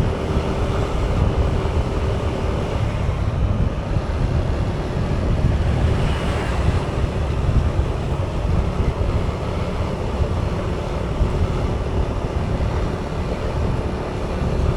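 Wind rushing over the microphone of a moving motorbike, with the bike's engine and road noise running steadily underneath.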